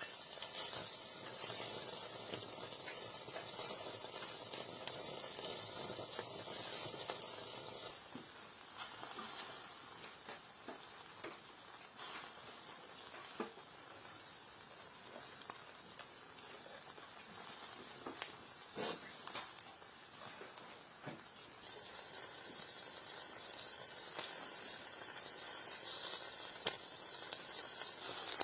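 Food sizzling and frying in a hot pan, a steady hiss broken by scattered small pops and crackles.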